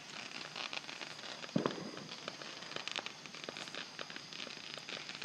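Fireworks: scattered faint crackling pops, with one duller thump about a second and a half in.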